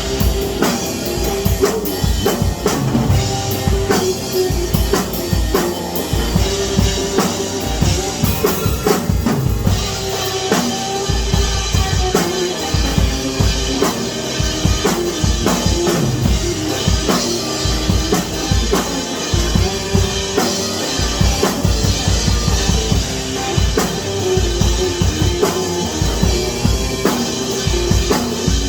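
Drum kit played in a busy, steady beat of bass drum, snare and cymbals, with sustained pitched notes underneath.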